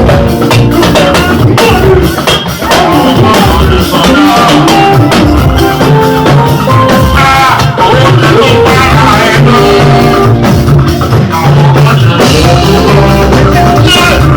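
Loud band music, with a singer over drums and percussion.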